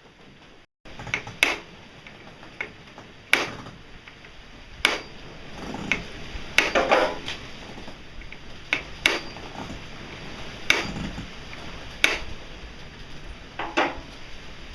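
Hammer striking a pin into a hole drilled through a radial arm saw's crank gear and its rod, pinning the gear so it stops slipping: about ten sharp strikes, spaced irregularly, roughly one every one to two seconds.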